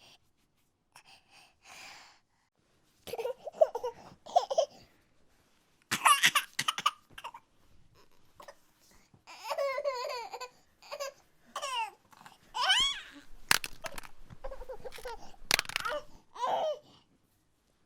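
A baby laughing and babbling in a string of short, high-pitched bursts with pauses between them.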